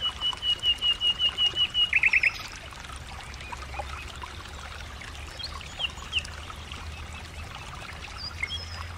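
A bird calling: a rapid run of identical high notes, about seven a second, ending about two seconds in with four quick downward-sweeping notes, then a few faint scattered chirps.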